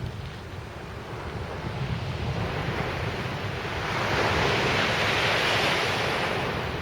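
Sea surf breaking and washing up the beach, swelling to its loudest about four seconds in and then ebbing, with wind rumbling on the microphone throughout.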